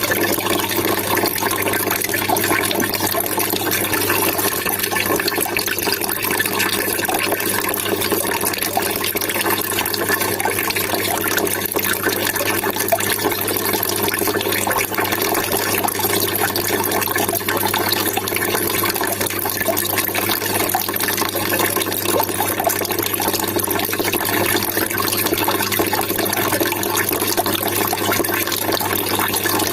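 Water trickling and splashing steadily, with a low, even hum underneath.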